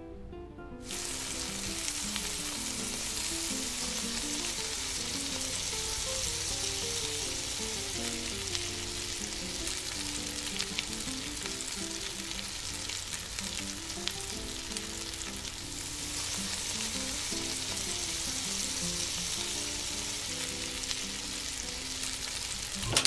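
Egg and vegetable omelette batter shallow-frying in very hot oil in a pan, a dense steady sizzle that starts suddenly about a second in as the batter hits the oil. Soft acoustic guitar music plays underneath.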